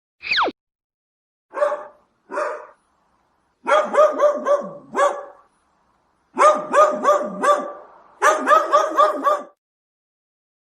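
A small dog barking: two single barks, then three quick runs of high-pitched yaps at about four a second. A short falling whistle-like sweep comes right at the start.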